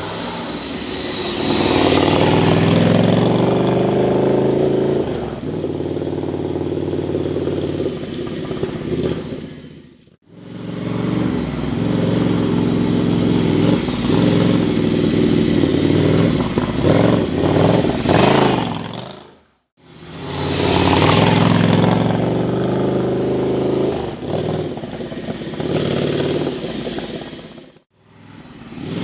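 Ducati Scrambler's air-cooled L-twin engine accelerating and running along, its pitch rising then settling, heard in three stretches each cut off abruptly by a brief silence.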